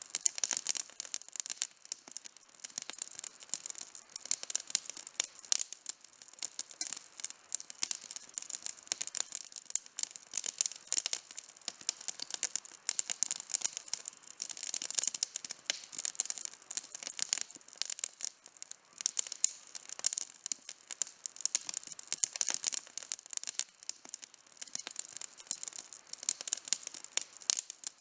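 Wood campfire burning with constant crackling: a dense, irregular run of small snaps and pops, with no steady roar beneath.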